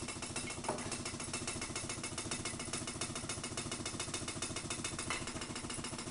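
Small free-piston Ringbom Stirling engine running with a fast, even clatter, still turning on residual heat just after its flame has been taken away.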